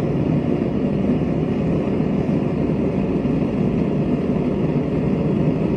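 Gas forge burner running steadily, a constant low rushing noise with the gas valve nearly fully open.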